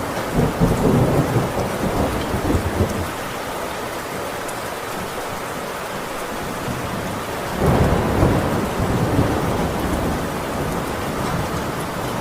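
Heavy rain pouring steadily on a metal roof, with thunder rumbling at the start that fades over the first few seconds. Another roll of thunder breaks in sharply past the halfway point and dies away.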